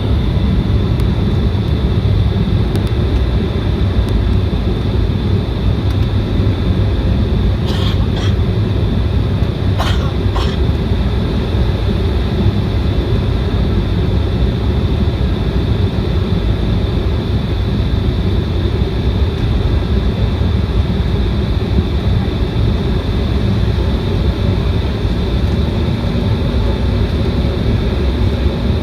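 Steady cabin noise of an Embraer 175 regional jet descending: a deep rumble of airflow and its two GE CF34 turbofan engines, with a thin steady whine on top. A couple of brief clicks or rattles come about 8 and 10 seconds in.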